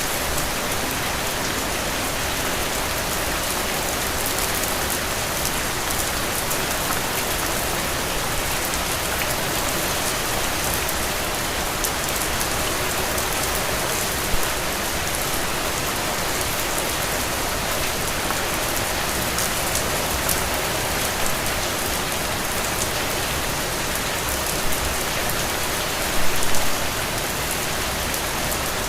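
Heavy rain falling steadily, a dense hiss of drops with sharp individual impacts. A couple of brief louder hits come about halfway and near the end.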